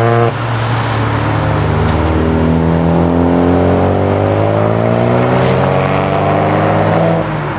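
Nissan Silvia's engine accelerating hard, its pitch climbing steadily for about five seconds over a loud rushing noise, then dropping off sharply near the end as the throttle is lifted.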